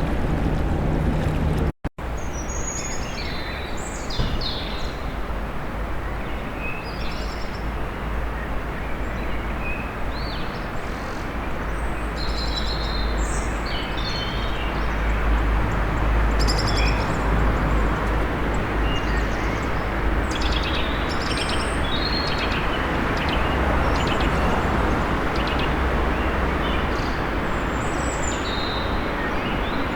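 Small birds chirping and singing in short phrases over a steady low rumble of city traffic. The sound cuts out for an instant about two seconds in.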